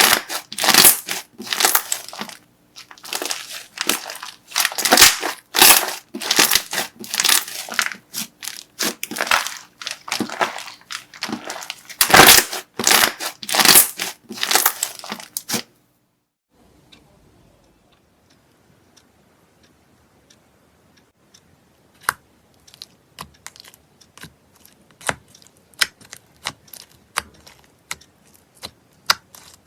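Crunchy slime being squeezed and pressed by hand, giving a dense run of crackling crunches that stops abruptly a little over halfway through. After a brief hush come sparse, faint crackles and pops.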